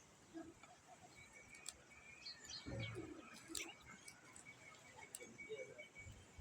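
Faint outdoor ambience with scattered bird chirps and calls, and a thin, high, pulsing trill that starts about two seconds in.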